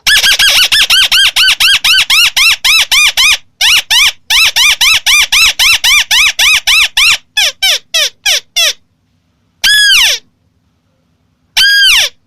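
White-browed crake calling: a fast chatter of nasal, arching notes at about five a second, broken by a short pause, then a few steeply falling notes, and two single notes spaced a couple of seconds apart near the end.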